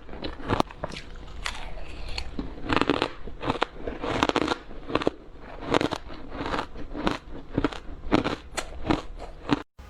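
Close-up bites into frozen matcha ice, each a sharp crunch followed by a short crackle, repeating at an irregular pace. The sound breaks off abruptly near the end.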